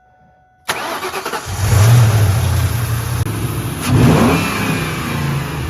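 2004 Ford Mustang GT's 4.6-litre V8 started on its freshly fitted 3D-printed nylon carbon-fibre throttle body: it cranks and catches less than a second in and settles into a loud idle. It is revved once about four seconds in.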